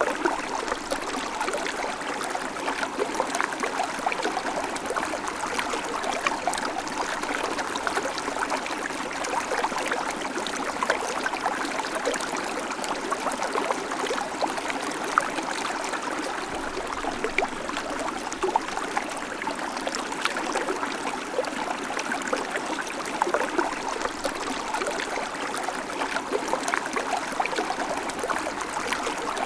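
A babbling creek: water running steadily over rocks, with many small splashes and gurgles.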